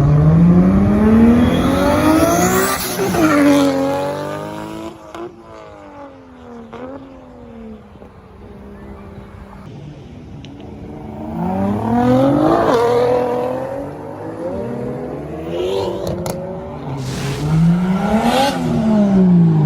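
Modified tuner cars accelerating hard one after another, engines revving up and dropping back at each gear change. Three loud pulls: one at the start, one about twelve seconds in and one near the end.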